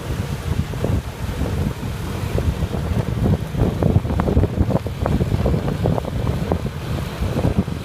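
Wind buffeting the microphone on a moving motorbike: a dense low rumble with irregular gusty thumps.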